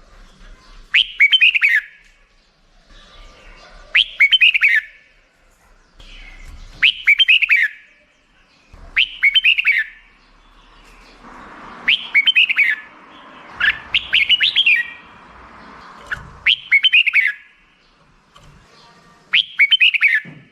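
Red-whiskered bulbul singing: short phrases of quick, chirpy, downward-sliding notes, repeated about every two to three seconds, eight times.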